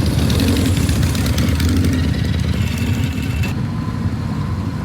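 Motor vehicle engines running with a rough, steady low rumble, motorcycles among them; a higher hiss over it drops away about three and a half seconds in.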